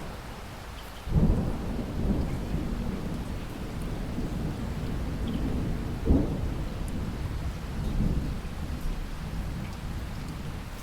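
Thunder rolling over steady rain: a sharp crack about a second in opens a long low rumble that swells again around the middle and dies away near the end, with rain hissing throughout.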